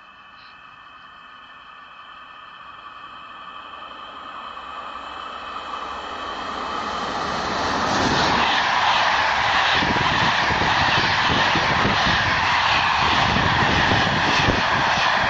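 Passenger train of Corail coaches approaching on electrified track, growing steadily louder, then running past close by with a loud rush and repeated clatter of wheels over the rails.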